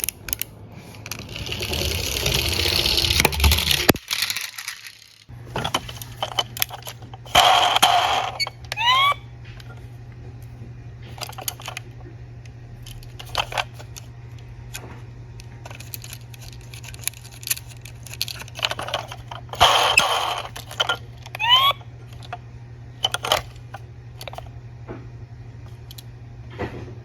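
Small diecast toy cars rolling down a toy slope in runs of a second or two, with many sharp clicks and metallic clatter as the little cars knock together, and a couple of brief rising squeaks.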